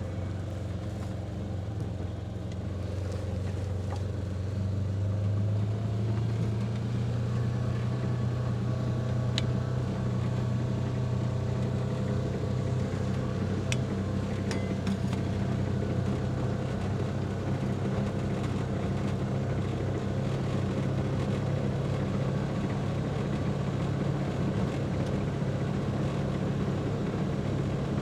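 Engine of a Ranger utility vehicle running as it is driven along, climbing a little in pitch and loudness in the first few seconds and then holding steady.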